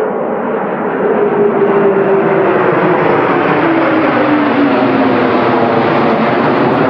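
F-15 fighter jet engines running, a loud steady rushing noise with a whining tone that slowly falls in pitch.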